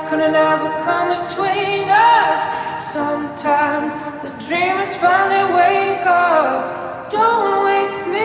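A song with a woman singing, her sustained, gliding vocal lines layered over a soft backing.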